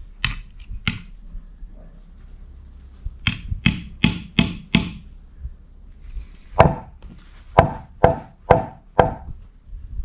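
Twelve sharp, hard blows in three groups: two, then five quick strikes, then five more with a ringing tone, as when chopping or striking wood.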